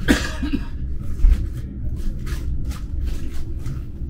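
Passenger train running along the track, heard from inside the carriage: a steady low rumble with faint rattling ticks. A short burst of noise comes right at the start, and a low thump about a second in.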